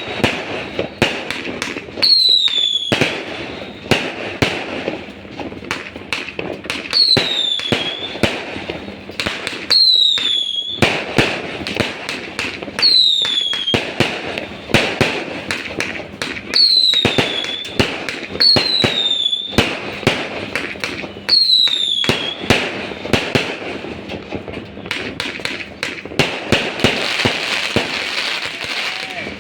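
Fireworks display: a steady barrage of bangs and pops, with whistling shells every few seconds, each a falling whistle that ends in a bang. The whistles stop about three-quarters of the way through, leaving dense crackling.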